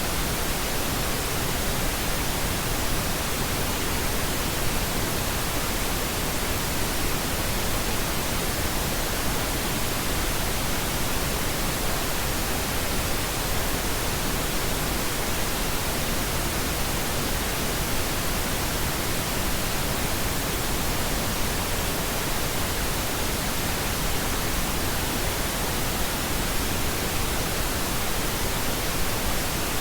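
Steady synthetic pink noise: an even, constant hiss with no changes or events.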